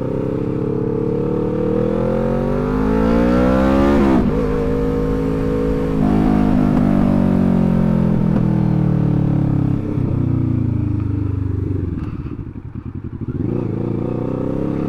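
Sport motorcycle engine pulling hard with the revs climbing, then a gear change about four seconds in. The engine holds high revs and slowly winds down, the throttle eases off briefly near the end, and the revs pick up again.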